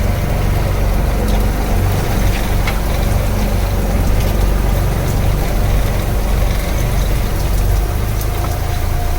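Fishing boat's engine running steadily with a low drone, under an even hiss of rain. The low engine note eases slightly near the end.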